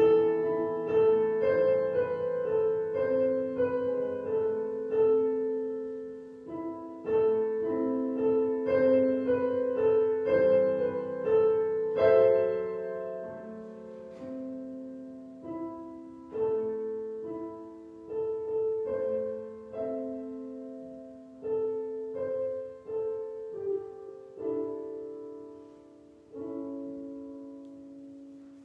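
Solo piano playing a slow prelude, notes and chords struck and left to ring and die away; the playing quiets and the last chord fades out near the end.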